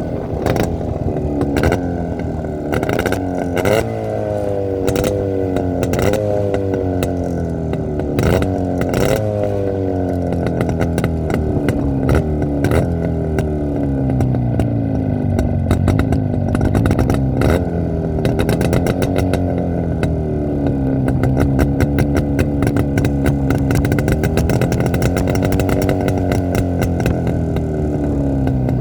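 Jawa 350 twin-cylinder motorcycle engine being revved in quick throttle blips, each one jumping up and dying away, about once a second for the first ten seconds. It then runs steadier, with slow rises and falls in engine speed.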